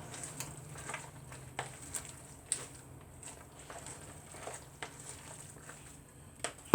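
A utensil stirring and folding chopped black olives into a bowl of Italian grinder salad: soft, irregular taps and clicks with wet squishing. A faint low steady hum runs underneath.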